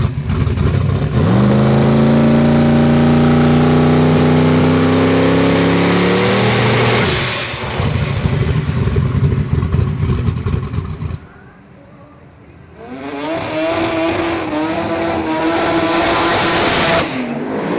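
Turbocharged V8 drag car at full throttle, its engine note climbing steadily in pitch for about six seconds, then falling away. After a short lull near the middle, engine noise returns at a fairly steady, wavering pitch.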